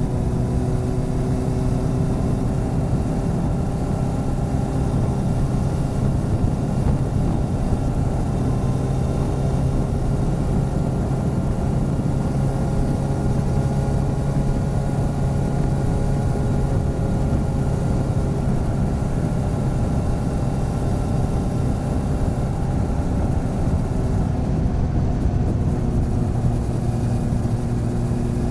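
Motorcycle engine running steadily while riding, its pitch drifting gently up and down, with wind and road noise.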